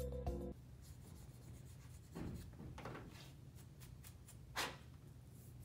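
Background music stops about half a second in. Then come faint scratchy rubs and small clicks of hands handling plastic model-kit parts on a tabletop, three short ones with the loudest near the end, over a low room hum.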